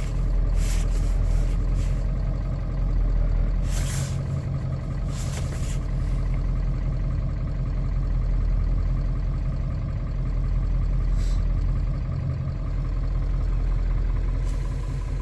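1996 Ford F250 pickup engine idling steadily after a cold start, with a few brief hisses on top.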